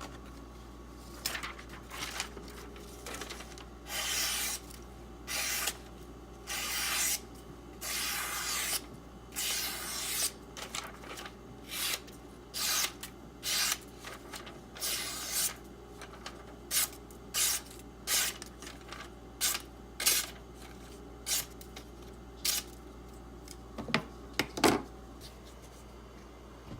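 Tape being peeled off a knife blade in a series of rasping pulls, longer at first and then shorter and quicker, with a sharp click near the end.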